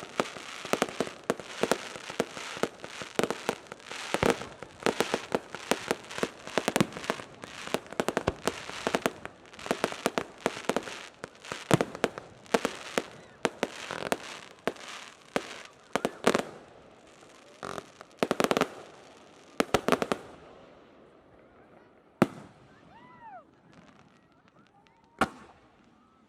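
Fireworks going off in a dense barrage of rapid bangs and crackling for about twenty seconds. It then thins to a few single bangs near the end.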